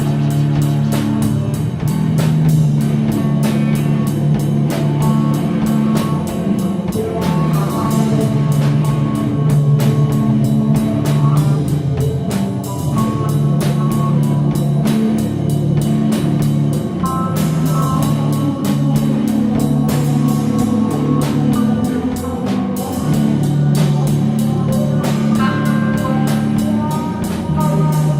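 Instrumental stoner rock: distorted electric guitars over a steady drum kit beat, with sustained synth-like notes.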